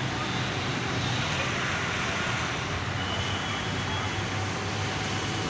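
Car engine running steadily, a constant low hum under an even noise that does not change.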